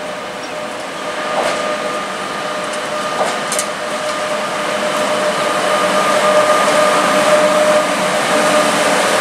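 WAP-7 electric locomotive hauling an express passenger train past at speed: a steady rushing rumble with a constant hum that grows louder as the train comes on. A few short sharp clicks come in the first few seconds.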